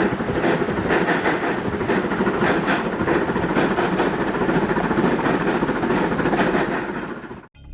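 Restored 1913 steam-powered railway snowplow at work: a loud, steady rush of steam and machinery with a fast, even chuffing rhythm. The sound cuts off abruptly near the end.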